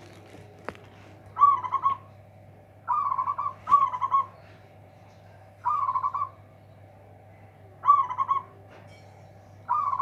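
Zebra dove (perkutut) cooing: short rolling coo phrases repeated about every two seconds, six in all, two of them close together. A steady low hum runs underneath.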